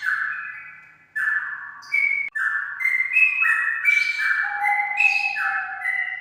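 Straw-headed bulbul (cucak rawa) singing: a run of clear whistled notes that step up and down in pitch, with a short break about a second in.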